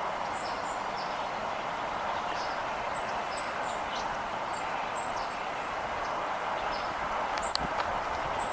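Small birds chirping in short, scattered high calls over a steady background hiss of outdoor ambience.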